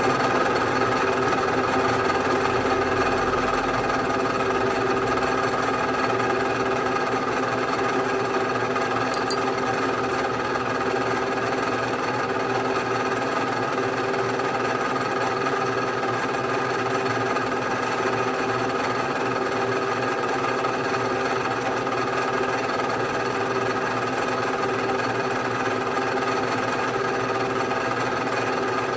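Bridgeport vertical milling machine running steadily with a half-inch end mill in the spindle, an even mechanical whine.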